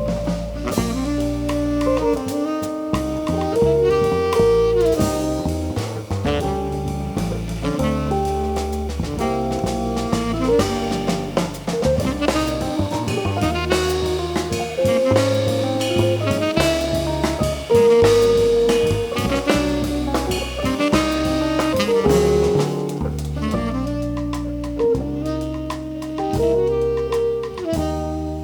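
Live jazz band playing a tune: a saxophone melody over drum kit, bass and keyboard.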